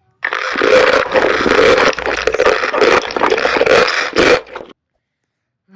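Loud, dense crunching of crunchy fried food being bitten and chewed right at the microphone. It runs for about four and a half seconds and stops abruptly.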